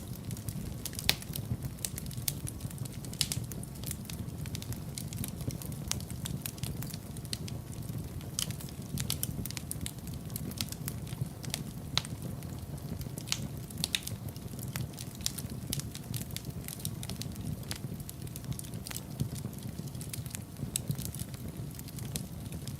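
Wood fire burning in a fireplace, crackling and popping: many irregular sharp snaps over a steady low rumble of the flames.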